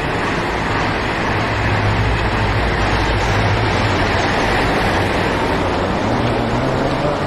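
Road vehicle engine and traffic noise: a steady rumble and hiss, with the engine note rising near the end as the vehicle speeds up.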